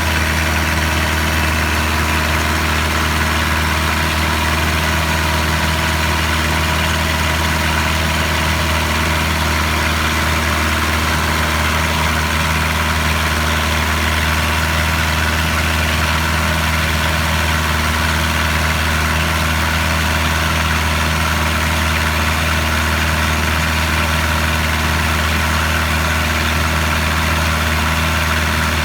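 Boat engine running at a steady, unchanging speed: a constant low drone.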